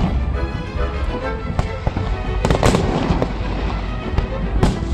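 Fireworks bursting, with sharp bangs about one and a half, two and a half and near five seconds in over a continuous low rumble. Music plays along with the display.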